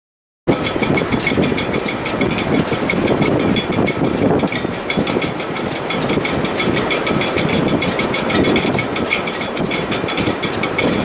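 Gale-force wind in a sailboat's shrouds: a steady rushing drone with a fast, even ticking over it. It starts after a brief silence.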